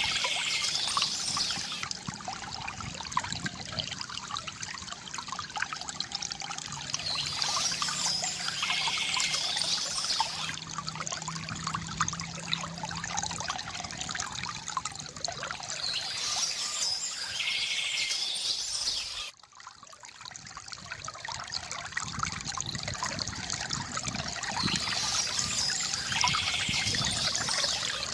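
Water trickling and splashing steadily from a bamboo fountain spout, with a bird chirping four times at even spacing, about every nine seconds. About two-thirds of the way through, the water sound drops away abruptly and swells back over a few seconds.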